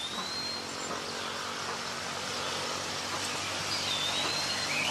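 A bird gives a thin, clear whistle twice, a note that dips and then holds level: once at the start and again about four seconds in, over a steady outdoor background hiss.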